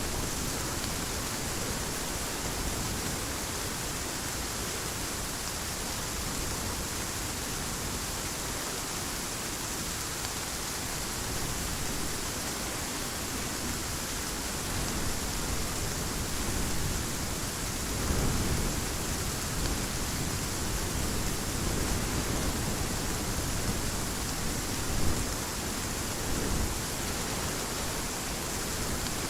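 Heavy rain falling in a steady, even hiss, with a couple of brief low rumbles of thunder, one about two-thirds of the way through and a shorter one near the end.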